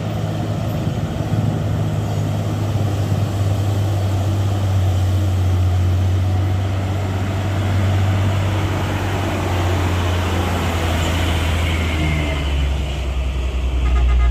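Heavy diesel truck engine running steadily at a low pitch, its pitch dropping lower about three-quarters of the way through.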